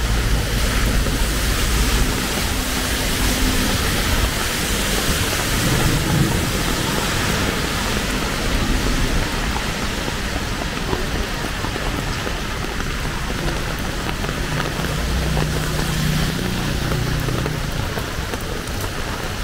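Heavy rain falling steadily on a city street, a dense even hiss, with a low rumble of passing vehicle engines at the start and again near the end.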